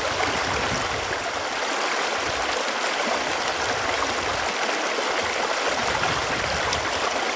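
Running water flowing steadily, a continuous rushing hiss with light gurgling.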